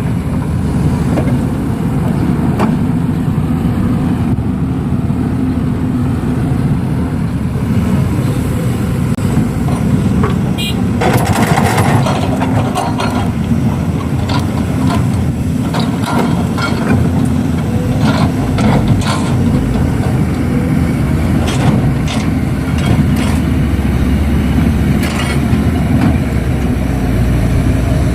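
Excavator's diesel engine running steadily, with scattered clanks and knocks of the bucket and a burst of rushing noise about eleven seconds in as a load of soil is tipped into a dump truck's bed.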